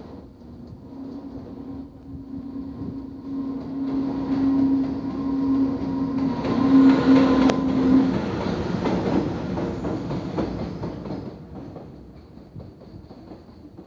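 JR Freight EH500 electric locomotive hauling a freight train past, its wheels clicking over the rail joints. A steady hum runs until about eight seconds in, and the noise swells to its loudest around the middle, then fades as the train moves off.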